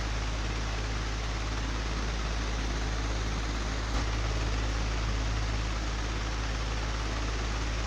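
Old electric fan running steadily: a low motor hum under an even rush of air, with a single small click about four seconds in.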